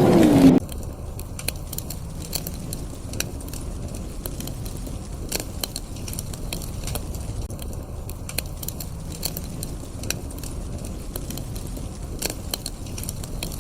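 Wood fire crackling, with many irregular sharp pops and snaps over a low steady rumble. About half a second in, a louder sound with a wavering pitch cuts off abruptly.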